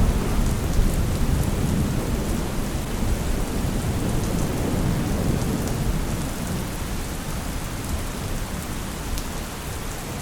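Steady heavy rain with fine drop ticks, under a low thunder rumble that slowly dies away.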